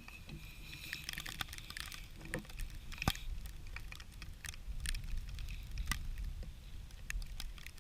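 Scattered sharp clicks and knocks of a hot stainless steel pot being lifted off a campfire with a knife and a piece of leather, over a low steady rumble; the two loudest knocks come about three and six seconds in.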